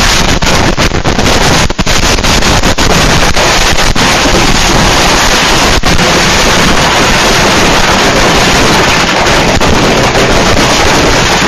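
A whole pile of consumer fireworks going off at once: a very loud, continuous barrage of bangs and crackling. Separate sharp bangs stand out in the first few seconds, then blend into an unbroken wall of noise.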